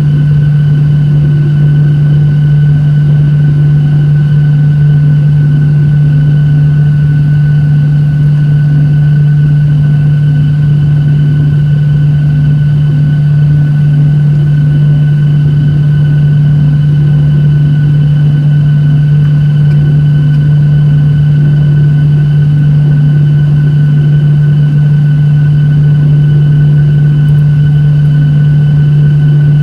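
Boeing 737-800 cabin noise: a steady, loud drone from its CFM56 turbofan engines, with a strong low hum and fainter steady high whines over an even rush of air.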